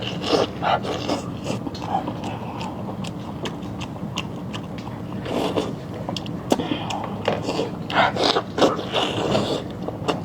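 Biting and chewing braised pork ribs, with scattered short crunches and scrapes.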